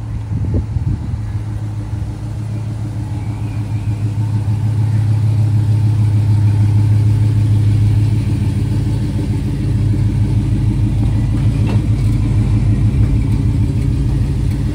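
Chevrolet Chevelle SS V8 engine running at low speed as the car rolls slowly past, a steady deep rumble that swells louder about halfway through.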